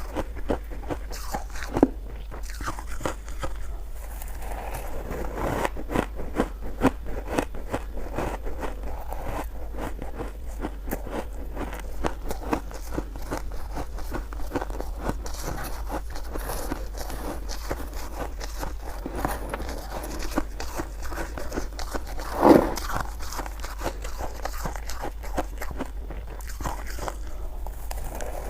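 Close-up crunching and chewing of shaved ice: a dense, continuous run of small crisp crunches, with one louder sound about three quarters of the way through.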